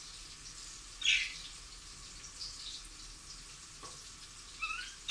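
A bird chirping: one short call about a second in, then quick rising chirps near the end, over a steady faint hiss.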